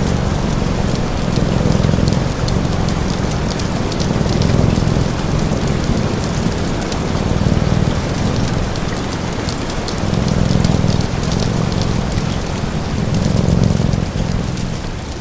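Steady rain with fine crackles of a fire, over a low cat purr that swells and fades in slow cycles every few seconds.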